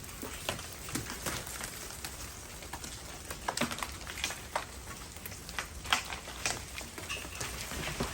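Irregular patter and ticks of thawing ice and meltwater dripping and falling from ice-coated trees, with a cluster of louder clicks in the middle.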